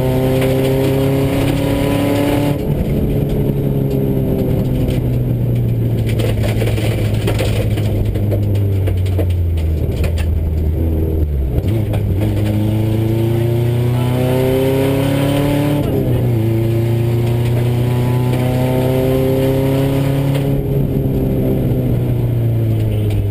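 Subaru rally car's flat-four engine heard from inside the cabin at full stage pace, revs climbing hard and dropping sharply a few times as the driver shifts and lifts, easing off near the end, over steady road and gravel noise.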